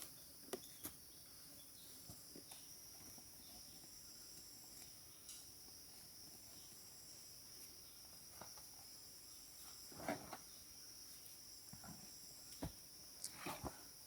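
Faint, steady high-pitched chorus of insects, such as crickets, with a few soft knocks scattered through it. The loudest knock comes about ten seconds in.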